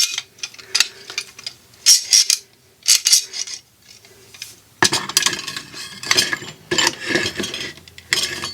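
Small steel tools and drill bits clinking and clattering as they are handled and set down. At first the knocks are separate, then they become a busier clatter about halfway through.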